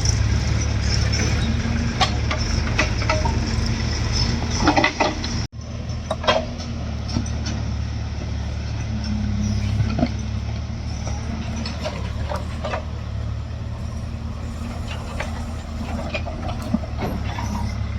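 Diesel engines of a JCB backhoe loader and a tractor running steadily under work, with scattered knocks and clanks. The sound cuts out for a moment about five and a half seconds in.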